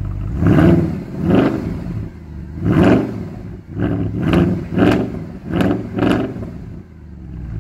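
A car engine revved repeatedly in short blips, about eight in a row, each one climbing and dropping back.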